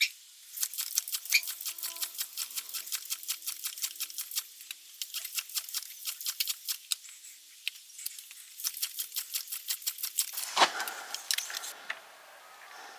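Fast, even clicking, roughly seven or eight clicks a second, with brief breaks. About ten and a half seconds in there is one louder sudden sound, and the clicking stops soon after.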